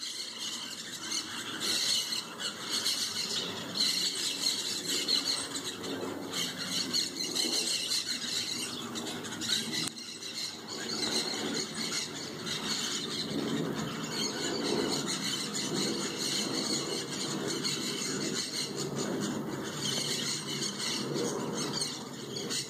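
A flock of birds gathered in a tree, squawking and squealing together in a dense, continuous, noisy chorus.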